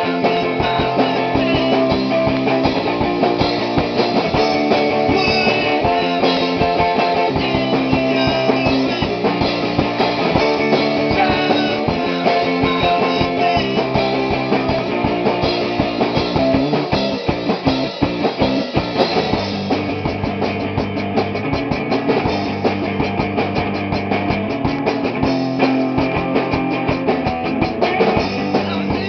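Rock band playing live in rehearsal: electric guitar chords over a drum kit, with the drums shifting to a fast, even cymbal beat about twenty seconds in.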